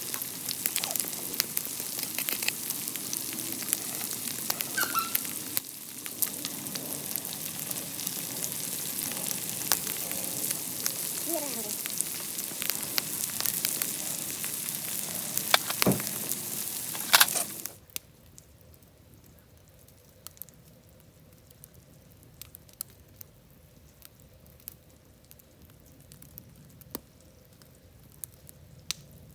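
Food frying in hot oil in an iron pan over a camp stove: a steady sizzle with scattered pops. It cuts off suddenly a little after halfway, leaving only faint scattered ticks.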